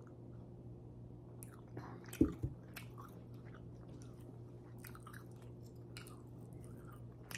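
Close-up eating sounds: chewing and small wet mouth clicks and smacks, over a faint steady hum. About two seconds in come two quick knocks, the loudest sounds, as the plastic drinking cup is set down on the table.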